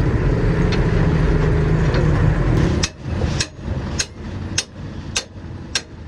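Hammer blows on metal at an even pace of nearly two a second, from about halfway through. Before that, a loud low vehicle-engine rumble fills the first half and stops abruptly.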